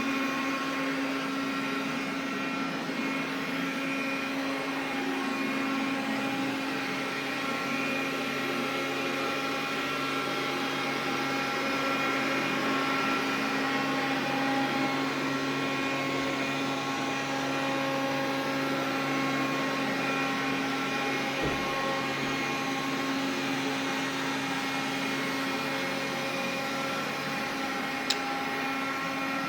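Xiaomi vacuum cleaner running steadily, a whining hum of several steady tones over the rush of its airflow, the kind of stray noise the owner is recording it for. A single sharp click near the end.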